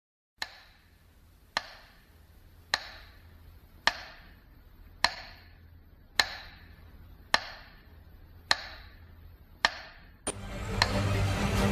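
Nine sharp, evenly spaced strikes, one about every 1.15 seconds, each with a short bright ring that dies away. Music comes in near the end.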